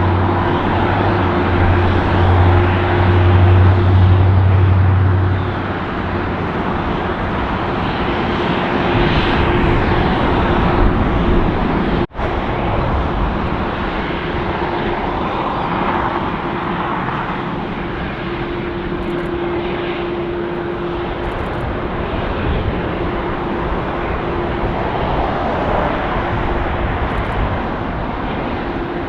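Jet aircraft engines running, a steady rushing noise with a low hum that fades out about five seconds in and a fainter steady tone coming and going. The sound drops out for an instant about twelve seconds in.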